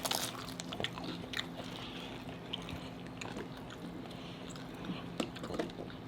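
Close-up eating sounds of crunchy hard-shell tacos being bitten and chewed: scattered crunches and wet chewing, with a cluster of crunches at the start and again near the end, over a steady low hum.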